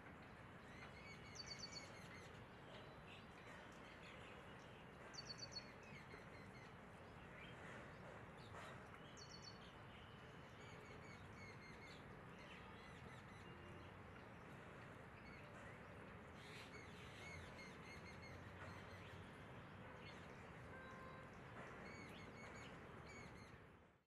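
Faint outdoor ambience: a steady low hiss with short runs of quick, high bird chirps, the clearest about a second in and about five seconds in, and fainter ones scattered later.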